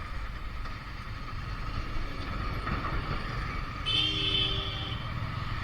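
Motorcycle engines and traffic noise running steadily, with a brief higher tone about four seconds in.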